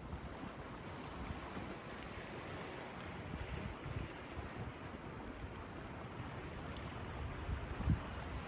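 Sea waves washing on the shore, with wind buffeting the microphone in uneven low gusts, one stronger gust near the end.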